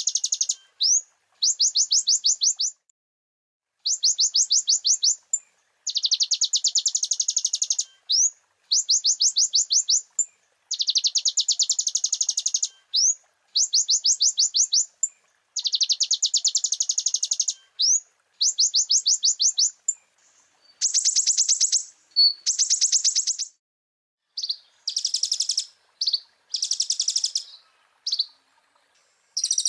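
Konin (kolibri ninja sunbird) song on a bird-training recording: fast, high-pitched trills delivered in bursts of one to two seconds, separated by short silences, with single quick rising notes between some of them. In the last third the bursts change character, lower-reaching and choppier, as the song passes to mimicked filler phrases.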